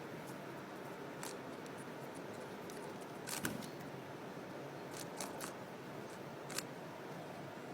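European goldfinch pecking and husking sunflower seeds: a few sharp clicks of beak on seed shell, the loudest about halfway through, over a steady background hiss.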